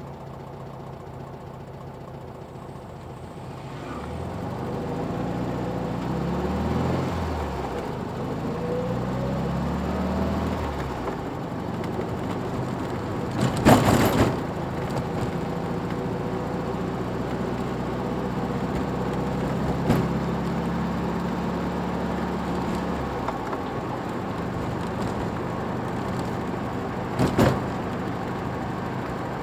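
Car engine and road noise heard from a moving car, the engine pitch rising and falling as it accelerates through the gears, then holding steady at cruising speed. A few sharp knocks cut in, the loudest about halfway through.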